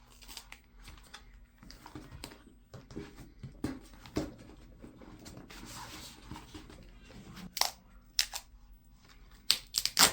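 Duct tape being worked by hand: scattered crackles and rustling as it is pulled and pressed, with a few sharp snaps near the end.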